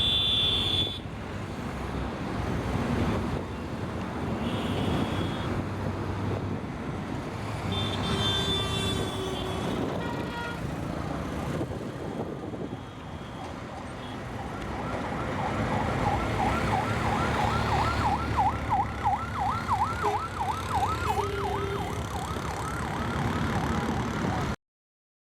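A motor boat's engine running with a steady low drone, with a few short high horn beeps in the first ten seconds. From about the middle, a siren wails up and down about twice a second over it, and the sound cuts off abruptly near the end.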